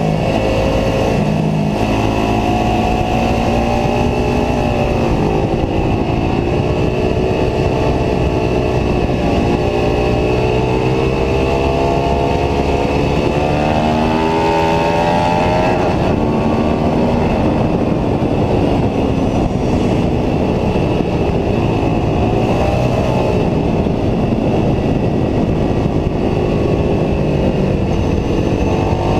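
Ducati 749S's L-twin engine at full track pace, its pitch climbing under acceleration and dropping sharply at gear changes and off the throttle, over steady wind rush.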